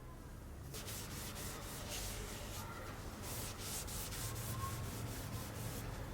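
Repeated abrasive rubbing strokes, like sanding, starting about a second in.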